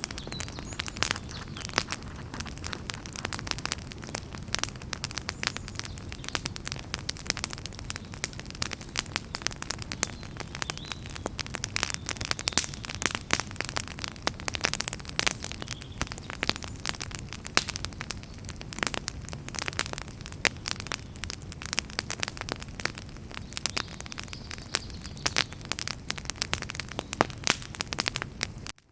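Wood fire burning with dense, irregular crackling and popping of the firewood over a steady low rumble of the flames. The sound cuts out for a moment at the very end.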